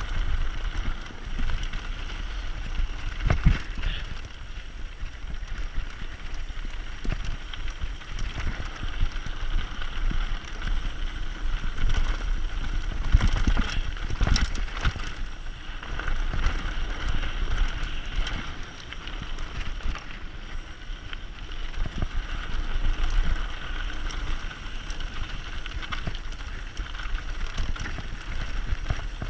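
Mountain bike descending a forest trail: tyres rolling over dirt and stones with the bike clattering, sharp knocks over bumps a few times, and wind rumbling on the action camera's microphone.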